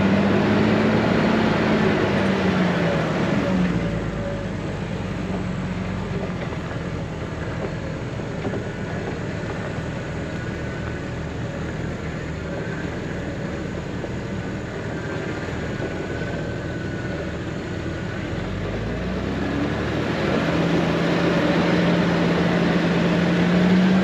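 Jeep engine under way on an off-road trail: louder and revving higher for the first few seconds, easing to a lower, quieter drone through the middle, then revving up and getting louder again near the end.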